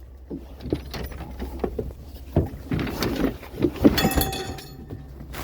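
Scrap aluminum and wood being handled and loaded, a string of irregular knocks and clatters with a brief metallic ring about four seconds in, over the low steady hum of the truck.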